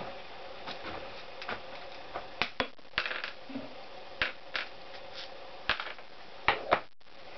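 Metal motorcycle engine parts being handled on a workbench: a string of separate clinks and knocks at uneven intervals, with a close pair near the end.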